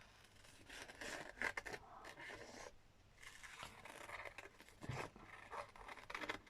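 Faint rustling, scraping and small clicks of paper and plastic craft sheets being handled and worked by hand, with short scratchy strokes scattered throughout.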